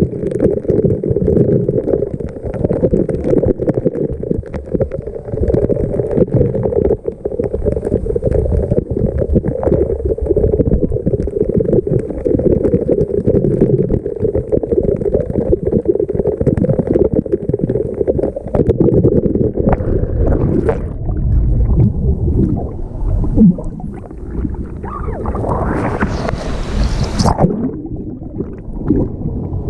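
Muffled rumble and gurgling of rushing waterfall water, recorded with the camera under the water. About 25 seconds in, a brighter splashing hiss swells for a couple of seconds, then cuts off.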